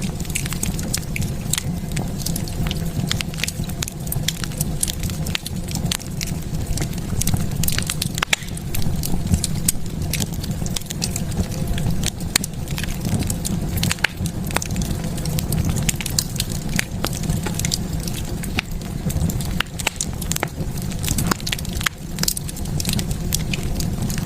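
Wood fire burning in a fireplace, crackling with frequent sharp pops over a steady low rumble of the flames.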